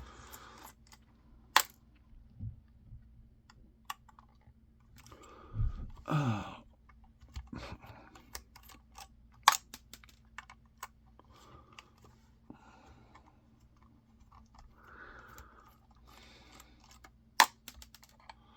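Small plastic and metal parts of an old camcorder clicking and clattering as it is taken apart by hand, with three sharp snaps spread through it.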